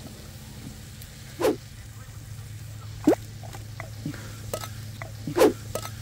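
Campfire cooking: a few scattered short pops, three of them louder, each rising in pitch, over a steady low hum.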